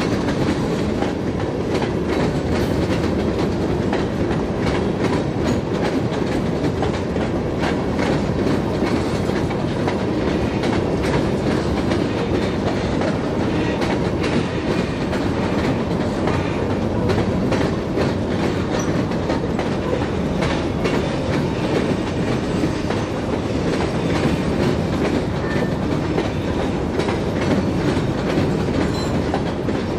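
Stone train's freight cars rolling along the rails: a steady rumble with wheel clatter.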